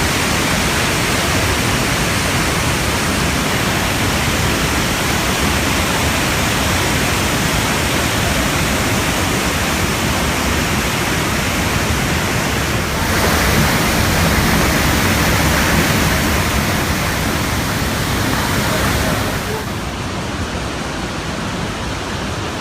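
Iguazu Falls: heavy water pouring, a steady, loud rushing noise that grows louder a little past halfway and drops back somewhat near the end.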